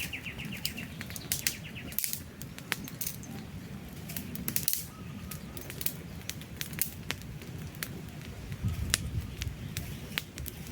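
Wood campfire crackling, with frequent sharp pops and snaps over a steady low rumble of flame. A bird's rapid trill fades out about a second in.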